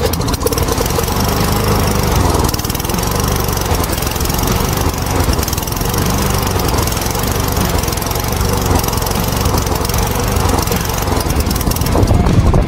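Small lawnmower engine running loudly and steadily, starting abruptly as if cut in.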